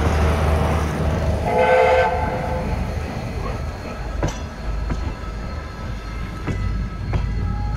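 Passenger train rolling slowly past behind a steam locomotive, with a low rumble throughout. About a second and a half in, the locomotive's whistle sounds a short chord lasting roughly a second. In the second half, several sharp clicks of wheels crossing rail joints.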